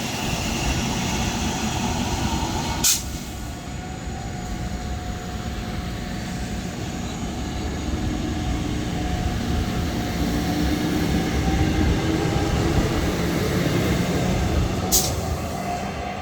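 South Shore Line electric commuter train pulling away from the station: a steady low rumble of the wheels with a motor whine holding a couple of steady tones. Two sharp clicks cut through, about three seconds in and again near the end.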